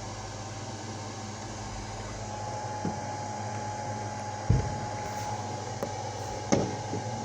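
Fireworks going off in the distance: two dull booms about two seconds apart, with a few smaller pops, over a steady background hum.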